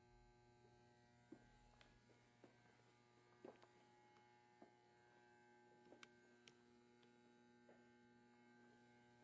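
Near silence: a faint steady electrical hum with a few faint clicks scattered through it.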